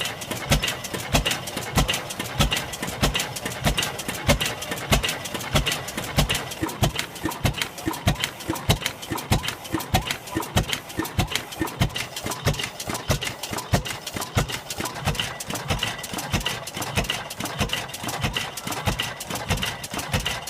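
International Harvester 25 horsepower Titan engine running with a steady, even beat of a few sharp exhaust knocks a second. Being throttle governed, it fires in an even rhythm instead of the irregular firing of a hit-and-miss engine.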